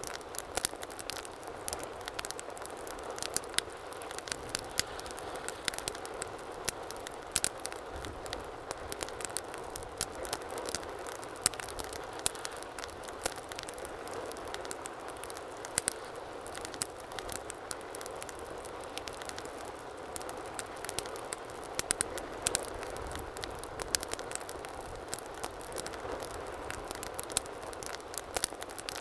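Wood fire burning steadily in a fireplace, with a constant low rush of flame and frequent sharp crackles and pops scattered irregularly throughout.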